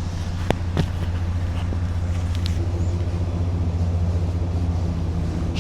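Car engine idling steadily with a low rumble, with two short clicks about half a second in.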